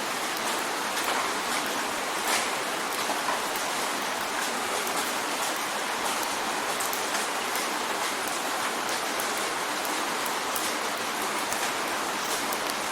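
Steady rain drumming on a window pane: a constant hiss of rainfall with scattered sharper ticks of individual drops striking the glass.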